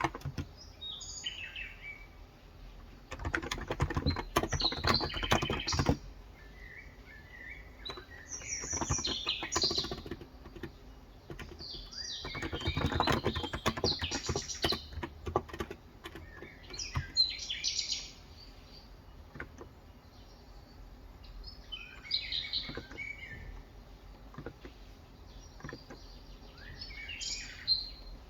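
Bursts of typing on a Cox Endeavour electro-capacitive 35 g tenkeyless keyboard, the runs of key clicks stopping after about two-thirds of the way in, while small birds chirp on and off throughout in the background.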